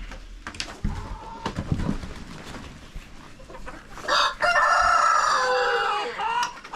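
A rooster crowing once, loud and long, starting about four seconds in and trailing off near the end, after a stretch of faint chicken clucking and light knocks.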